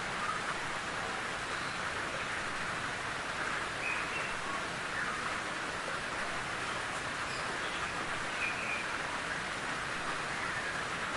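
Steady rain falling in a forest, with a few brief bird chirps over it.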